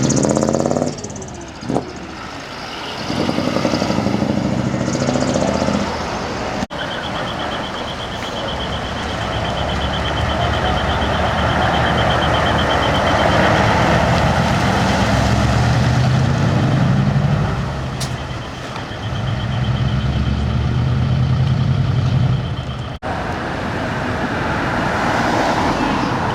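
Heavy decorated trucks driving out one after another, their diesel engines revving up and dropping as they pass close by, with a steady high beeping tone through the middle stretch.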